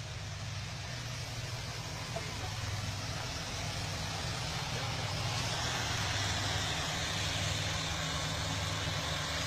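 Heavy truck engine running steadily at a low, even hum, slowly growing a little louder.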